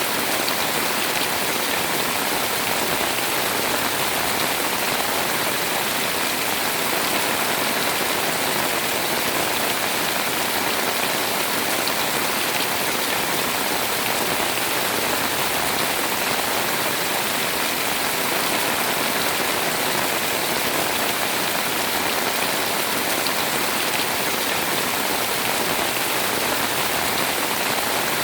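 Heavy, steady rain pouring down, a dense even hiss with faint scattered drop ticks.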